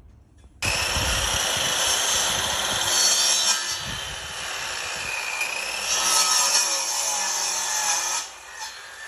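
A power tool working wood, coming in abruptly about half a second in, running with shifting pitch and loudness, and stopping sharply about eight seconds in.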